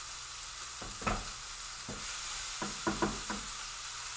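Diced chicken with garlic, ginger and coriander sizzling in oil in a hot skillet, with a utensil knocking and scraping against the pan several times, in a quick cluster near the end.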